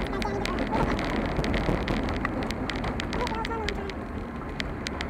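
Vehicle driving on an unsealed road, heard from inside the cabin: a steady road rumble with many sharp irregular ticks, such as gravel striking the car.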